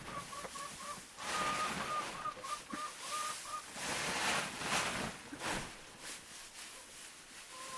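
Wind gusting hard against the microphone, rising and falling, with a bird's short call repeated about four times a second through the first half. The calls come back briefly near the end.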